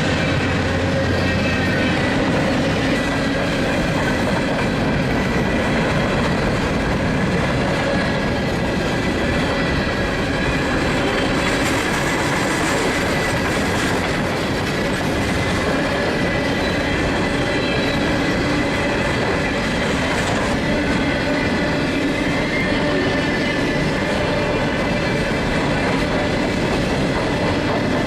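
Freight train cars rolling past at steady speed, a continuous rumble and clatter of steel wheels over the rail, with faint thin high tones of wheel squeal.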